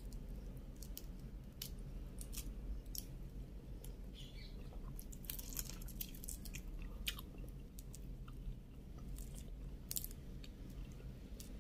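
A person chewing shrimp close to the microphone, with irregular short wet mouth clicks, thickest about halfway through, over a steady low hum.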